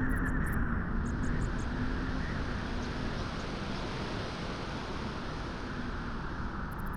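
Wind blowing steadily on a beach, an even low rush with no clear gusts or breaks.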